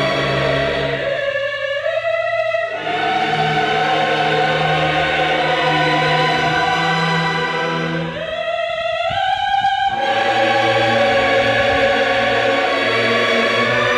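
Background music: a choir singing long held chords in a classical or operatic style, rising to a higher chord twice.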